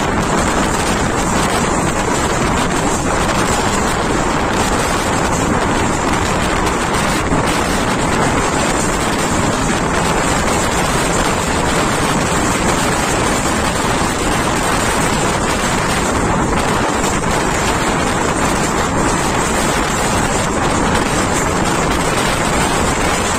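Passenger train running at speed, heard from an open coach doorway: a steady rush of wind on the microphone over the running noise of the wheels on the track.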